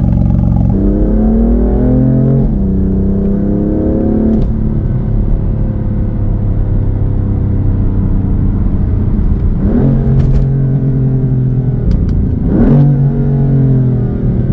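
2018 BMW M4 Competition's twin-turbo straight-six, with gutted mufflers, being revved. The revs climb twice in the first few seconds, then settle to a steady lower note. Two quick blips come near the ten- and twelve-and-a-half-second marks.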